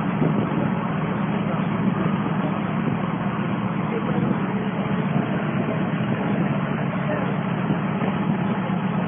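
Lamborghini sports car's engine running steadily with a dense low rumble, holding an even level without revving.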